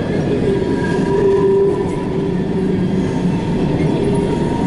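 Empty coal hopper cars of a freight train rolling past on the wye, with steady wheel rumble and a sustained squeal of wheels on the curve.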